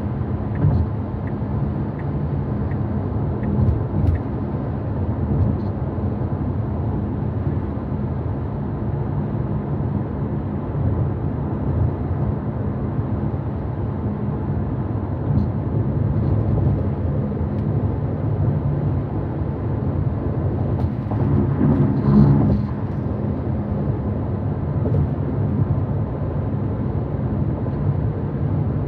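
Steady road and tyre noise inside the cabin of a Tesla Model Y electric car driving at speed, a low even rumble with no engine note. About three-quarters of the way through it briefly swells louder.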